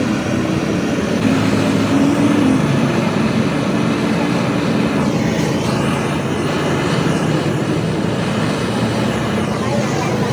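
Steady motor-vehicle noise, an even low rumble that holds at one level throughout.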